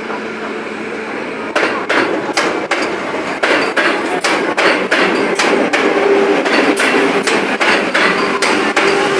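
Vande Bharat electric train's wheels clacking over rail joints in a steady rhythm of about two to three knocks a second, starting about a second and a half in, over a steady hum.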